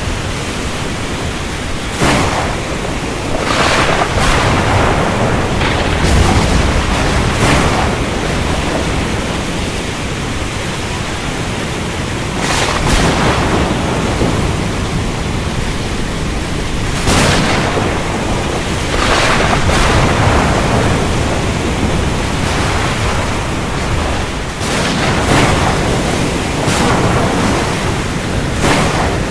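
Thunderstorm: a steady roar of heavy rain with sharp cracks of thunder every few seconds, about ten in all.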